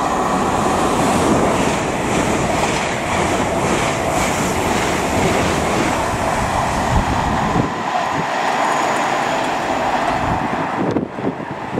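LNER Azuma (Hitachi Class 800-series) high-speed train passing at speed: a steady loud rush of wheel, rail and air noise. About eight seconds in the deep rumble thins, and near the end the sound drops away.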